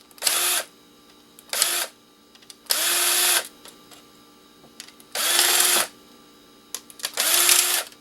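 An electric drill-driver runs in five short bursts, each under a second, with its pitch dropping as it takes load: it is backing out screws.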